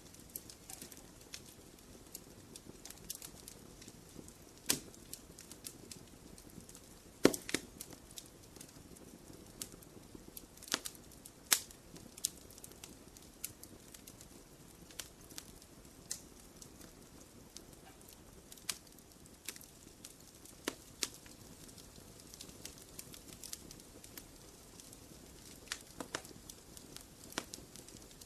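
Wood fire in a fireplace crackling: scattered sharp pops and snaps over a faint low hiss, the loudest pop about seven seconds in.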